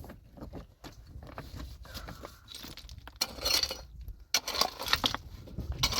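Stones clinking and clattering against one another as they are handled and moved, in irregular bursts of sharp knocks.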